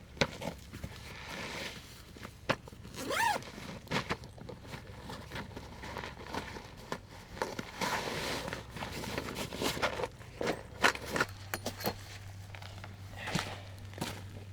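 Handling noises: an irregular run of scrapes, rustles and sharp knocks, with a short squeak that bends up and down in pitch about three seconds in.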